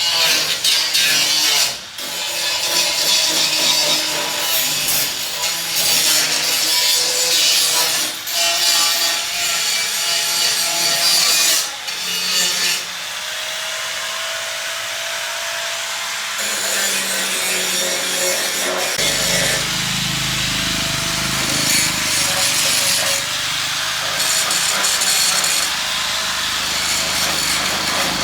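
Wood being sawn by hand: a continuous rasping of a saw cutting through timber for the handcart repair. About two-thirds of the way in the sound changes and a deeper steady rumble joins.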